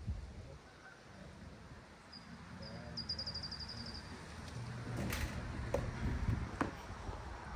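A bird gives a short, rapid trill of high notes, and a few seconds later come three sharp knocks about half a second to a second apart.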